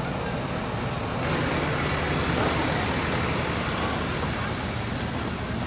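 Tractor engine running with a low rumble, swelling louder about a second in and easing off again near the end.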